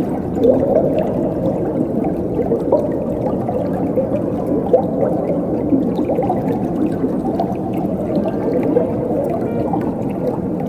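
Flowing water gurgling and trickling steadily, low in pitch.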